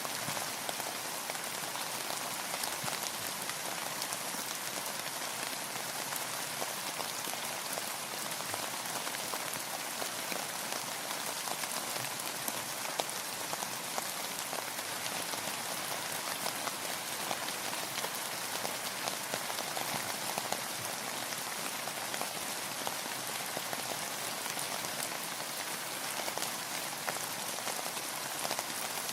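Steady rain falling and pattering on surfaces, a constant hiss dotted with many small drop ticks.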